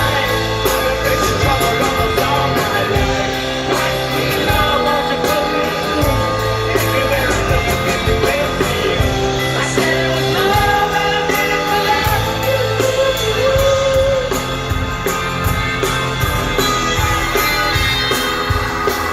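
Rock band playing live: electric guitars, bass and drums, with a singing voice over them.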